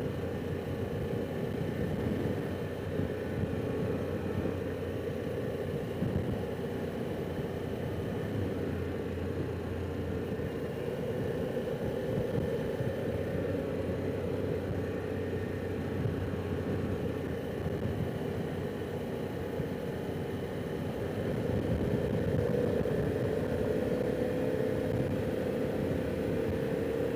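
Harley-Davidson Pan America Special's 1250 V-twin engine running steadily under way, with road noise. It gets a little louder about three-quarters of the way through.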